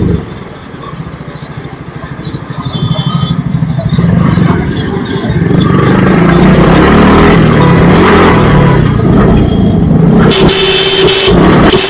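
Yamaha sport motorcycle's engine running under way, its revs rising and falling, mixed with wind and road noise. Quieter for the first few seconds, then loud.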